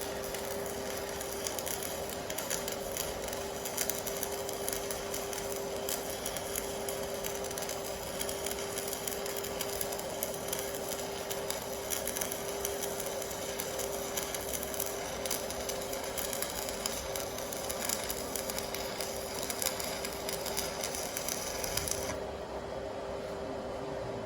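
TIG welding arc from a Stahlwerk AC/DC TIG 200 welder, a steady crackling hiss over a constant hum. The hiss stops about 22 seconds in while the hum goes on.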